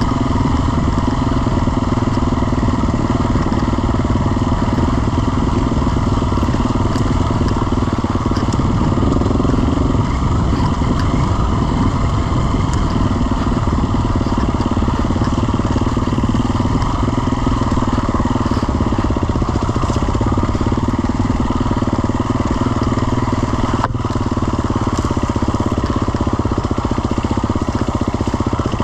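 Engine running loudly and steadily, with no clear revs or stops.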